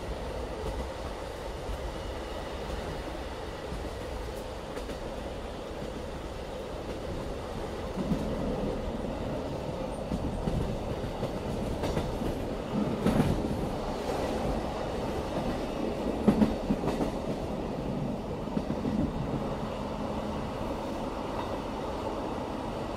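BLS train running, heard from inside the coach: a steady rumble of wheels on track that grows louder about a third of the way in, with a few sharp rail-joint clacks in the middle.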